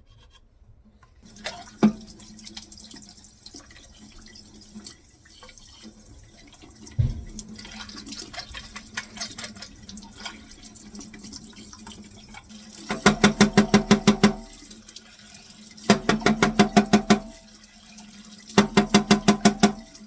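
Kitchen tap running into a sink as dishwasher parts are rinsed under it, with a couple of knocks. In the second half there are three loud bursts of fast, even rattling strokes, each about a second and a half long.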